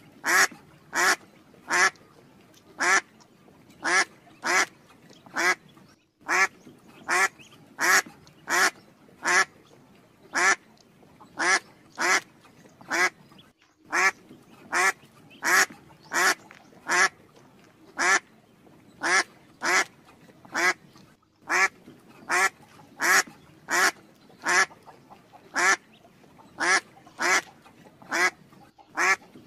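A long series of short, quack-like animal calls, about one and a half a second, with brief pauses a few times.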